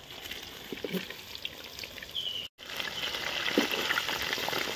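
Marinated chicken pieces deep-frying in hot oil, a steady sizzling hiss that cuts out abruptly just past halfway and then resumes.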